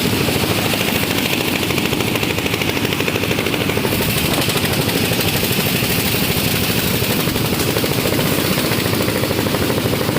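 A loud machine running steadily with a fast, even rattling pulse.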